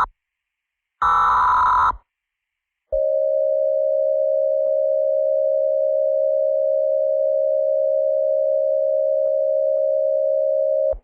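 Emergency Alert System header and attention signal: the end of one raspy data burst right at the start and another about a second long a second in, then after a short gap a steady single-pitched alert tone held for about eight seconds that cuts off abruptly.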